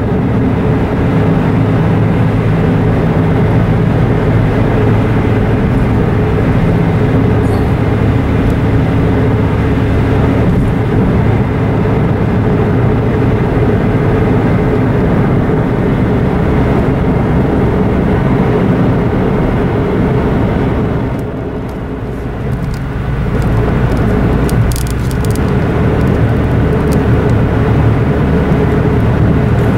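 Car driving on the road, heard inside the cabin: a steady hum of engine and tyre noise that dips briefly about two-thirds of the way through.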